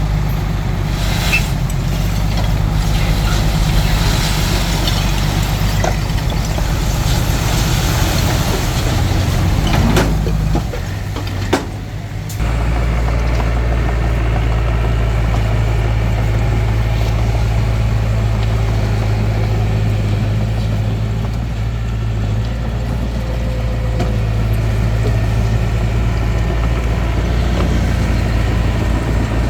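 Small crawler bulldozer's diesel engine working, with clanking and scraping from the tracks and blade for the first ten seconds. About eleven seconds in the engine sound drops away briefly, then it runs on at a steady, even note.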